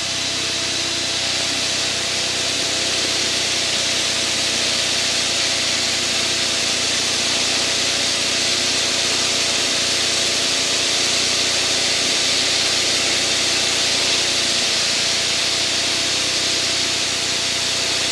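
Aircraft engine droning steadily in flight, heard from inside the cockpit: a few steady engine tones under a strong, even high hiss of airflow.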